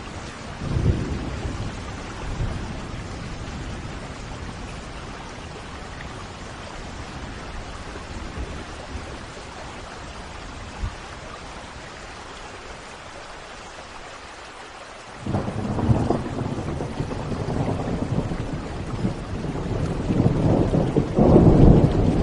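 Thunderstorm: steady rain with thunder. A short rumble comes about a second in. About two-thirds of the way through, a long rumble starts suddenly and grows louder toward the end.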